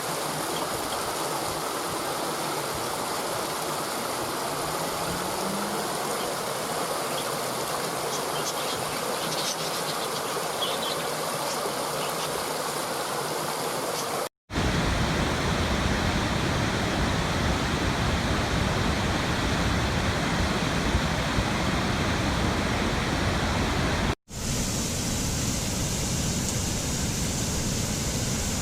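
Waterfall water rushing and splashing in a steady, even roar, in three stretches cut apart by two brief silences about 14 and 24 seconds in; the middle stretch is louder and deeper.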